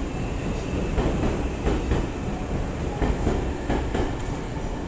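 Electric commuter train running on the rails: a steady rumble with irregular clicks of the wheels over rail joints.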